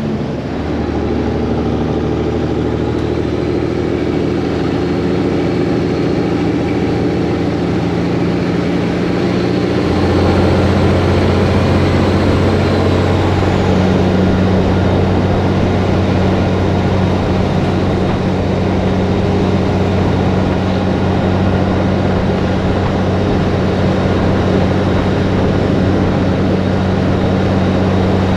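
Heavy truck's diesel engine running steadily, heard from inside the cab. Its pitch and loudness step up about a third of the way through and once more shortly after, as the truck picks up speed, then hold steady.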